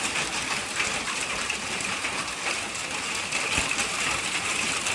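Hailstorm with rain: a dense, steady hiss of countless small hailstones and drops hitting surfaces. A single low thump about three and a half seconds in.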